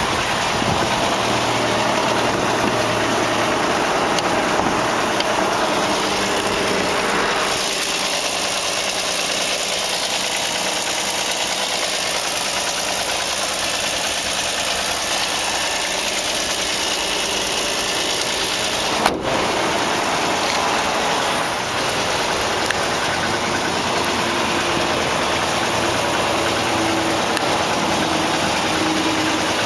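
2004 Land Rover Freelander's engine idling steadily, with a single sharp click about two-thirds of the way through.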